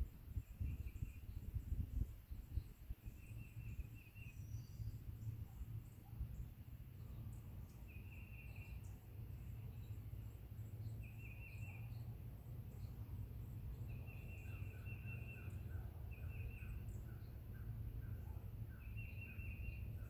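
Songbirds calling: short rapid chirping trills come every few seconds, and from about two-thirds of the way in a faster run of lower notes joins them. A steady low rumble runs underneath.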